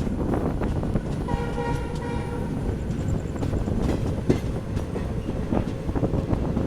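Indian Railways passenger train running along the track: a steady rumble with scattered wheel clicks over the rail joints. The locomotive horn sounds once, about a second in, for about a second.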